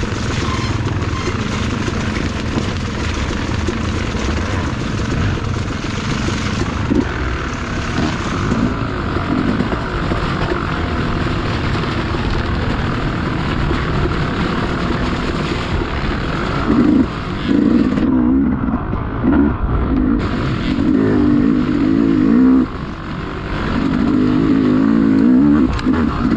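Dirt bike engine running under way, heard up close. From about two-thirds of the way through it revs up and down over and over as the throttle is worked, with a brief drop in loudness near the end.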